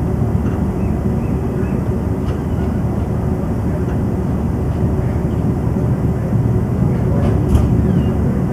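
Pakistan Express passenger train running on the track: a steady, heavy rumble of wheels and carriages, with a few faint clicks and squeaks.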